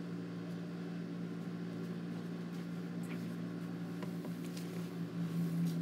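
Steady hum of a room air conditioner, with a few faint ticks partway through.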